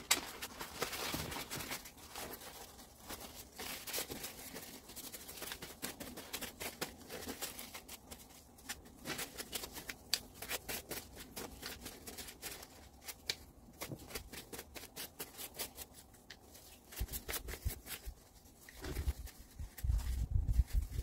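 Irregular scratching, rustling and many light clicks of hands working on small parts, with a few heavier low knocks near the end.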